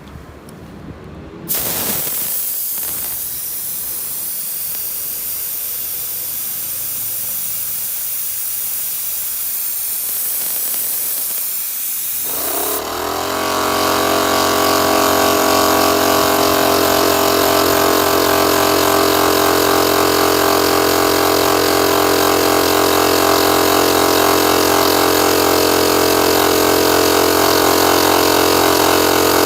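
MAX AK-HL1230EII air compressor: compressed air suddenly starts hissing out about a second and a half in and keeps hissing steadily. About twelve seconds in, the compressor's motor and pump cut in and run steadily under the hiss to the end.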